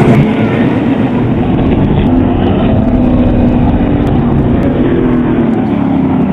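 A car engine running at steady revs, with road and wind noise over it.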